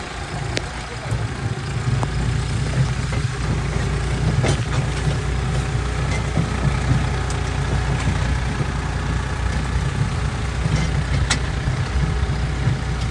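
Tractor engine running steadily at low revs, with a few sharp clicks and knocks.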